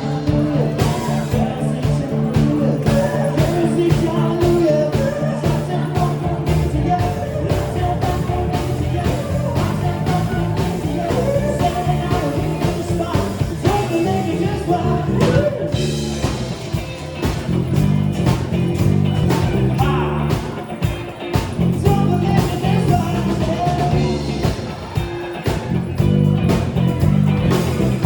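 A band playing a funk-pop song with a lead singer over a steady bass line and a regular drum beat.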